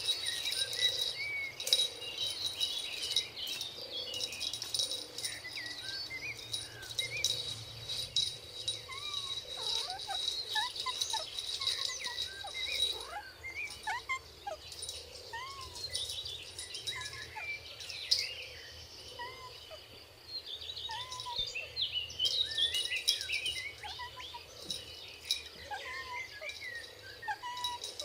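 Many short chirping animal calls overlapping one another, with a steady high tone running under them through the first half.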